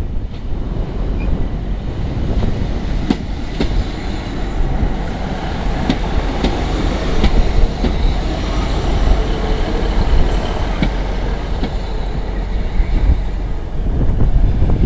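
Class 150 diesel multiple unit running past close by along the platform, its wheels clicking over the rail joints again and again.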